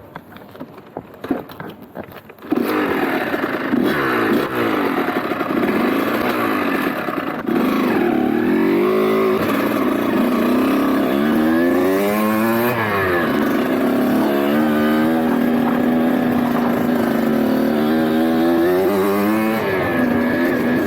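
Dirt bike engine coming in suddenly about two seconds in, then running and revving up and down over and over as the bike is ridden, with one sharper high rev about halfway through.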